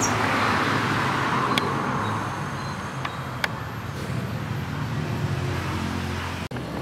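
Road traffic: a vehicle passing, loudest at the start and fading away, over a steady low engine hum, with a few faint short high ticks.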